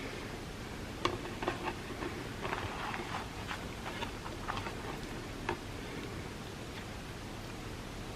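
Close-miked chewing: a scatter of soft, wet mouth clicks and smacks over a steady low hiss, which die away after about five and a half seconds.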